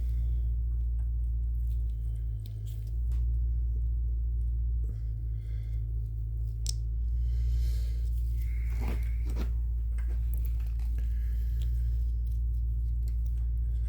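Scattered clicks and scraping of hand work on a brake caliper bracket and its slide pin, with a brief squeaky scrape about nine seconds in, over a steady low rumble.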